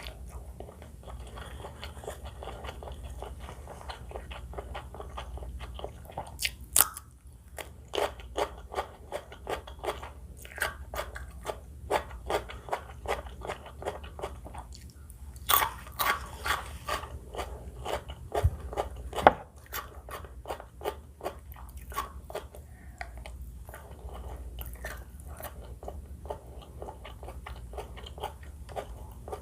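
A person chewing crispy food close to the microphone: soft chewing at first, then a long run of crisp crunches, about two a second, with a few louder bites, easing back to softer chewing near the end.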